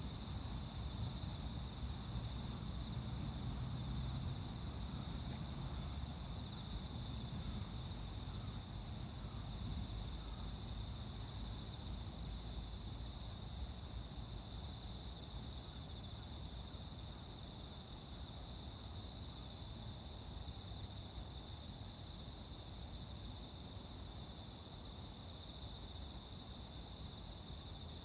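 Dawn chorus of late-summer insects, crickets and similar singers: two continuous high-pitched trills with a fainter evenly repeating chirp between them. A low background rumble runs underneath.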